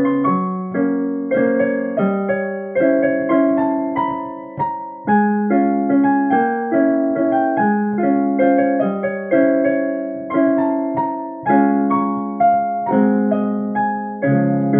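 Solo piano playing: a melody over steady bass notes and chords, each note struck and left to ring.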